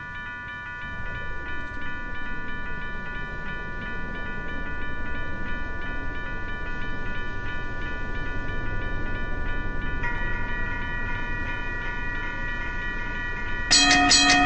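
Diesel-hauled freight train approaching, a low rumble that grows louder over the first several seconds and then holds steady.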